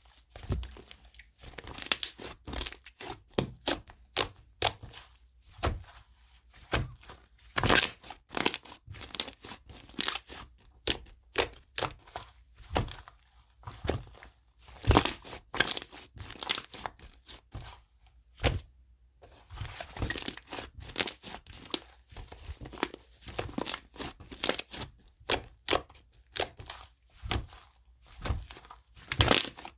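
Cream-textured slime being squished and stretched by hand, giving an irregular run of sticky clicks and crackles, several a second, with a short pause about two-thirds of the way through.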